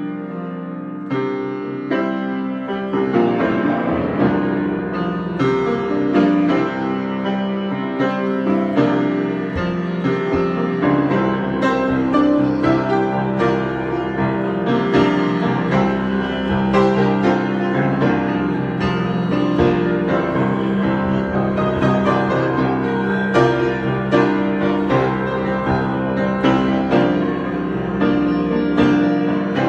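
Solo piano improvisation, playing notes and chords continuously with sustained, overlapping tones. It starts a little softer and fills out about three seconds in.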